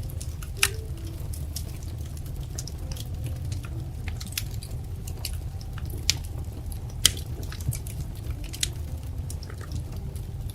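Wood fire crackling in a fireplace: a steady low rumble of burning with irregular sharp pops and snaps, the loudest about half a second in, about six seconds in and about seven seconds in.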